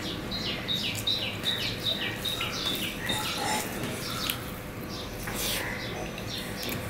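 A bird calls a quick run of falling notes, about three a second, for the first three seconds. Under it are soft clicks and squishes of rice and curry being mixed by hand on a steel plate.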